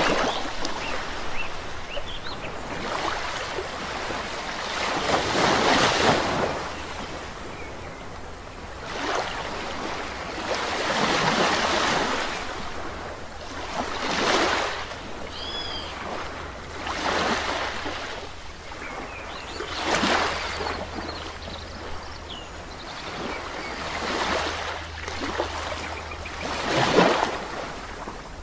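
Sea waves breaking on a shore, each surge of surf swelling and fading every few seconds. Faint short bird calls come now and then, a pair of them about halfway through.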